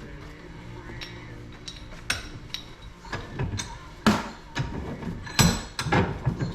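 Hand tools knocking and clinking on metal parts: a string of irregular sharp taps and metallic clinks, busier and louder in the second half.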